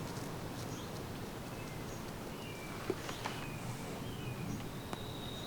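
Outdoor nature ambience: a few faint, short bird chirps over a steady low background noise, with a thin high note starting near the end.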